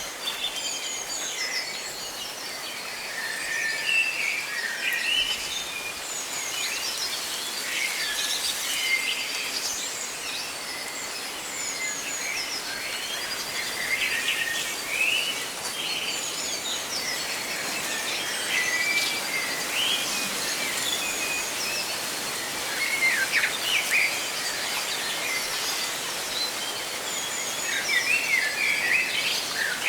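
Many birds chirping and trilling over and over, over a steady hiss of leaves rustling in the wind.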